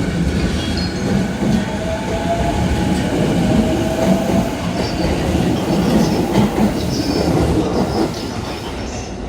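Electric train moving on the station tracks: wheel and rail rumble that builds to a peak about six seconds in and falls away about eight seconds in, with a faint whine in the first few seconds.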